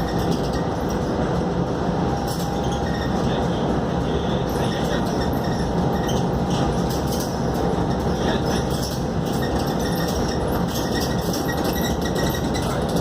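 Inside a Scania K280UD double-decker bus under way: the engine and road noise drone steadily, with a faint steady whine and light rattles from the fittings.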